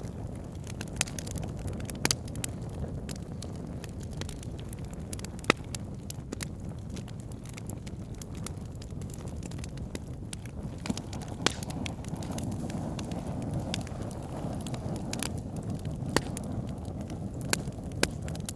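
Wood fire burning in a fireplace: a steady low rush of flames with irregular sharp crackles and pops, the loudest about five seconds in.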